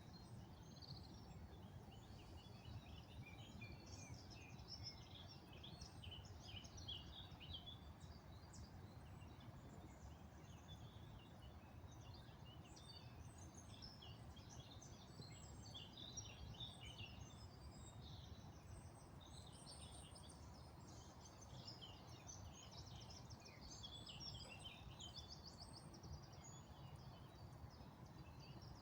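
Faint chorus of small birds chirping and singing throughout, many short overlapping calls, over a steady low background rumble.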